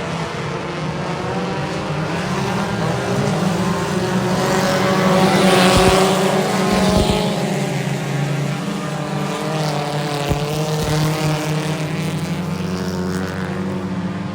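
Race car engines running at speed on a dirt track. The sound swells to its loudest as cars pass about six seconds in, then eases back to a steady drone.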